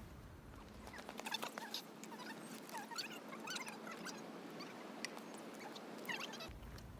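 Many short, high, squeaky chirps, scattered irregularly over a faint outdoor hiss, from about a second in until shortly before the end.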